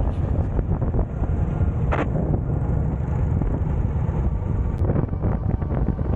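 Harley-Davidson V-twin motorcycle engine running steadily, with a low pulsing rumble and wind noise on the microphone.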